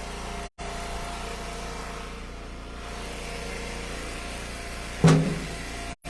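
Engine of an Eastonmade Ultra wood splitter running steadily while ash rounds are split. There is one loud knock of wood about five seconds in, and the sound drops out for an instant twice.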